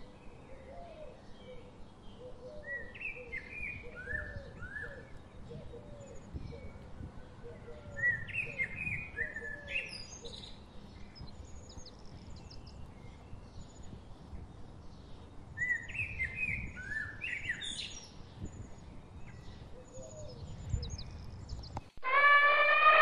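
Several birds chirping and calling, with bursts of short quick phrases every few seconds over a lower repeated call. An elephant trumpets loudly near the end.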